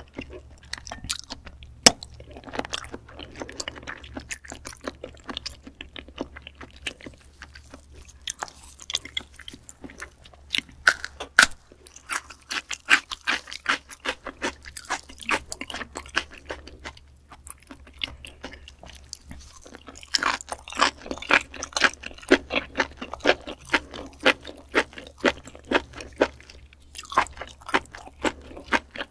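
Close-miked chewing of raw beef spinal cord: a dense run of wet mouth clicks and smacks that thickens and thins in bursts.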